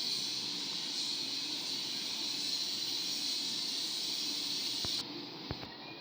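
Steady hissing rush of a blast furnace being tapped, the hot blast and molten iron jetting from the taphole. About five seconds in it drops away suddenly to a quieter noise with a couple of sharp clicks.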